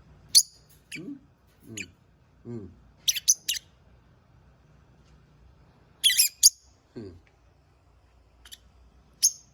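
Pet lovebirds chirping: short, sharp high calls in scattered bursts, with quick runs of three about three seconds in and again about six seconds in.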